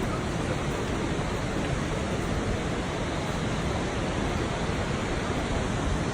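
Steady rushing of the Krka River's falling water, an even, unbroken hiss.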